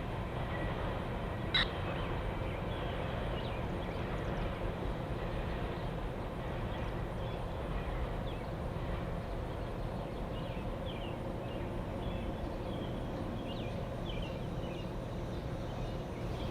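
Train passing: a steady rumble with a low hum under it, scattered short high squeaks, and one sharp brief squeal about one and a half seconds in.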